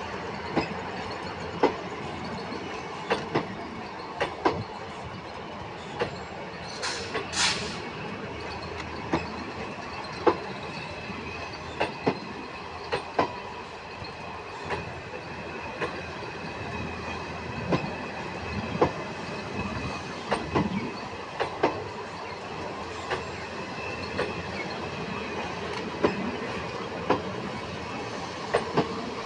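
Train wheels rolling over rail joints: a steady rumble broken by irregular sharp clicks, with two short hisses about seven seconds in and a faint high wheel squeal in the middle.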